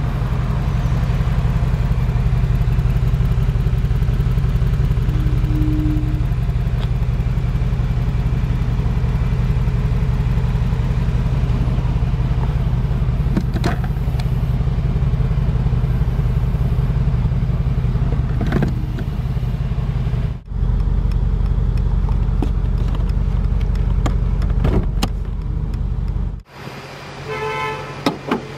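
Mercedes-AMG G63's 4-litre twin-turbocharged V8 idling with a steady deep rumble. It cuts off abruptly twice, with a few light clicks and a short series of beeps near the end.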